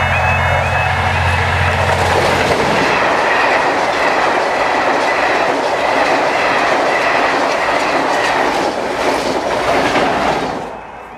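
A Class 57 diesel locomotive passes with a steady low engine drone, then the Pullman coaches roll by with a continuous rumble and clickety-clack of wheels over the rail joints, cutting off suddenly about ten and a half seconds in as the train clears the crossing. A level crossing warning alarm warbles behind it.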